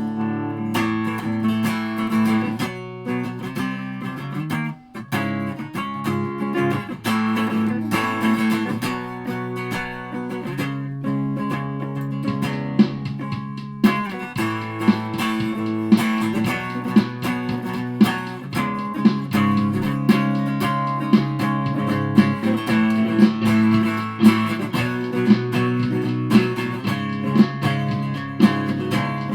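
Aria Pro II Thor Sound electric guitar played through a pedal chain that includes a Joyo US Dream and a Behringer Super Fuzz: riffs and sustained chords, with sharp picked accents about once a second in the second half.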